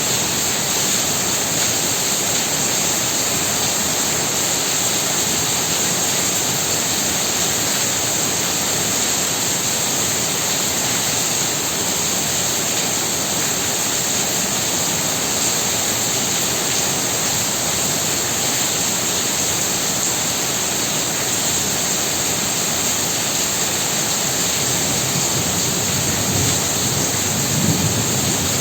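Heavy rain falling hard and steadily as a dense, even hiss. A low rumble builds near the end.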